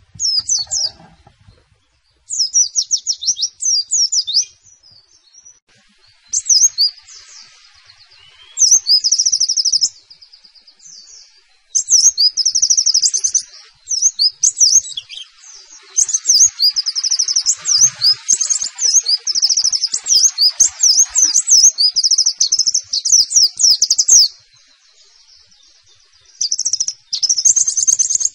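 White-eye (pleci) singing its fast 'nembak' song: high, rapid strings of quick chirps in bursts, separated by short pauses. The longest run comes in the middle, and there is a quieter gap near the end before the song resumes.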